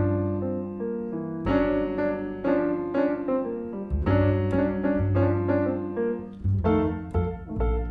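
Piano music: a run of struck notes over sustained low bass notes.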